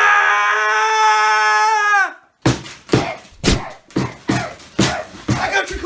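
A person screaming in one long, high held note that sinks slightly in pitch and breaks off about two seconds in, followed by a run of sharp smacks, about two a second.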